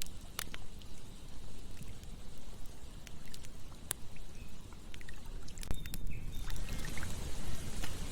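Campfire crackling, with sharp single pops every second or two, over a steady low rush of flowing water. From about six seconds in the hiss brightens and short bird chirps join.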